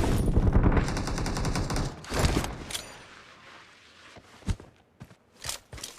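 Video-game automatic gunfire: a rapid burst of shots for about two seconds, two more shots just after, then fainter scattered single shots.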